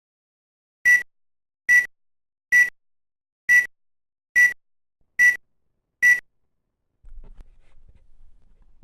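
Seven short electronic beeps at one steady high pitch, evenly spaced a little under a second apart, followed near the end by a faint low rumble.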